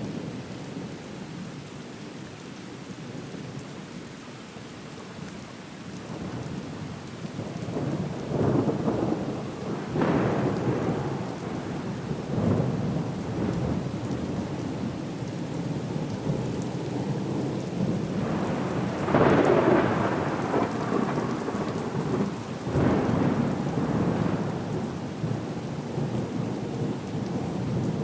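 Thunderstorm ambience: steady rain with rolls of thunder swelling over it several times, the loudest about two-thirds of the way through.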